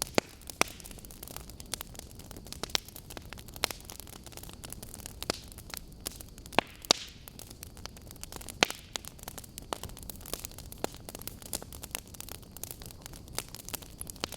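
Burning logs crackling and popping in a wood fire, irregular sharp snaps over a low steady rush of the flames, with a few louder pops.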